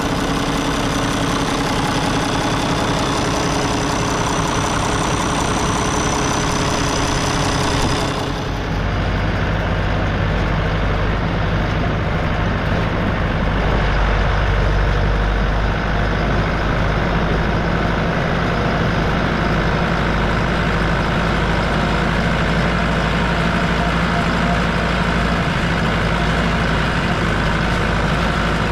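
Tractor engine running steadily under way. About eight seconds in the sound turns duller and deeper, with more low rumble.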